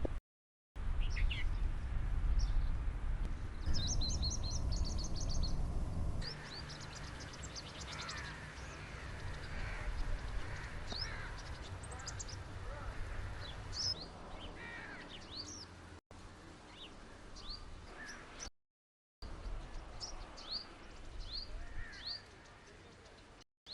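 Wild birds chirping and calling: short high notes and a quick trill, heard across several spliced nature recordings that cut out briefly between clips. A low rumble sits under the first six seconds.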